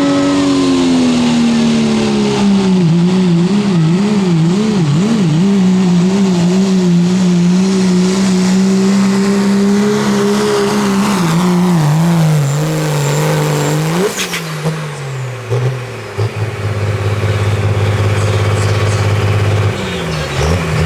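Diesel pickup truck's engine running hard at high revs during a pull, its pitch wobbling a few seconds in. About two-thirds through the note drops with a brief sharp sound as it comes off the throttle, and the engine settles to a steady lower idle.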